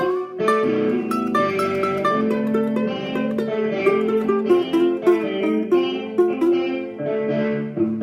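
Guitar being played: quickly picked single notes carry a melody over held lower notes.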